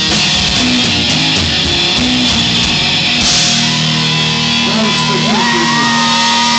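Live hard-rock band playing loud, led by electric guitar over bass and drums. Near the end a long note bends up in pitch and is held.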